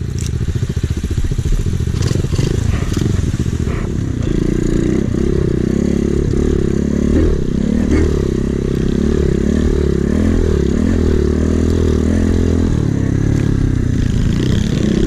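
A Chinese Trailmaster pit bike's small single-cylinder engine revving up and down over and over under load, as the rider works the bike out after it has sunk deep.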